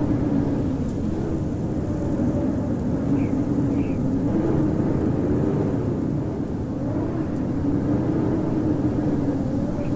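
Strong blizzard wind howling steadily, a deep rumble under a slowly wavering, moaning pitch that rises and falls.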